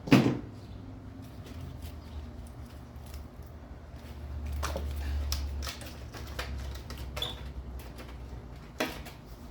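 Sparse clicks and knocks of tools and small metal engine parts being handled, with a sharp knock right at the start, over a low steady hum.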